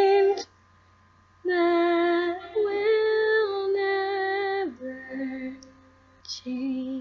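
Unaccompanied female voice singing: a held note cuts off, and after a short pause comes a slow wordless phrase of held notes that drops lower and softer near the end.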